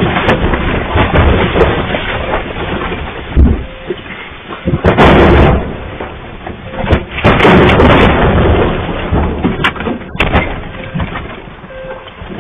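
Loud, uneven rumbling with rattling and scattered knocks and bangs, swelling twice near the middle: a building and its contents shaking in an earthquake.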